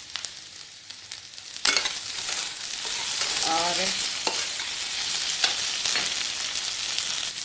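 Mashed potato and onion frying in oil in a kadhai, sizzling while being stirred with a spatula that clicks and scrapes against the pan. The sizzle jumps sharply louder about a second and a half in and stays up.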